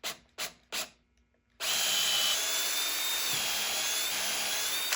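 A woodworking power tool cutting into red oak: a loud, steady cutting noise with a high whine that starts suddenly about a second and a half in and stops abruptly at the end. It is preceded by three short knocks.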